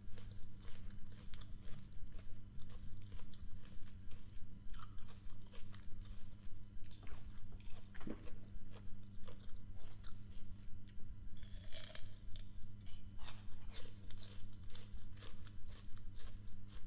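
Close-up chewing of crisp apple: a steady, rhythmic crunching of about three chews a second, with one louder, brighter crunch of a fresh bite around twelve seconds in.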